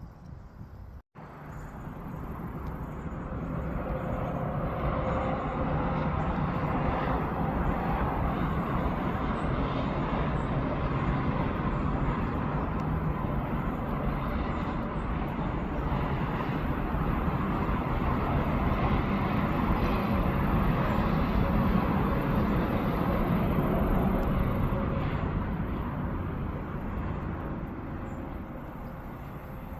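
Rumble of a passing vehicle, building over several seconds, holding steady, then fading near the end.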